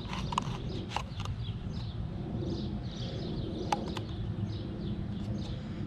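Small birds chirping repeatedly over a steady low outdoor rumble. There are a few light clicks from a plastic bait container being handled in the first second, and one more near the middle.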